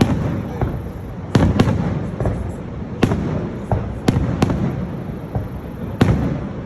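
Fireworks exploding overhead: a string of sharp bangs, about seven in all at uneven intervals, each rumbling and echoing away.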